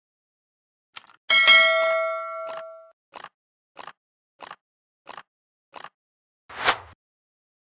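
An added bell-like ding rings for about a second and a half, followed by five short, evenly spaced clicks, then a single whoosh near the end.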